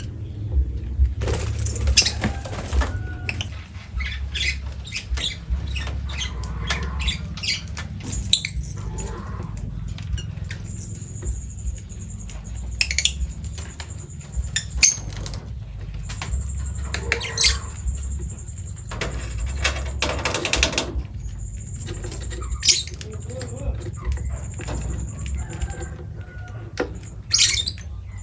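Lovebird flapping its wings and moving about, with many scattered small taps and knocks. A thin, high, steady tone comes and goes through the middle part.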